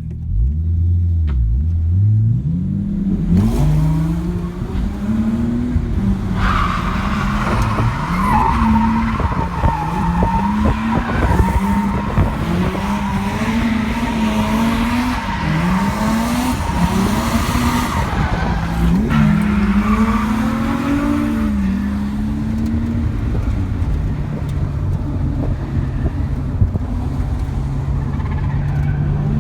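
Supercharged Nissan 350Z's V6 revving hard while drifting, its pitch rising and falling over and over. Loud tire squeal starts about six seconds in and lasts to around twenty seconds. After that the engine runs steadily at a lower pitch.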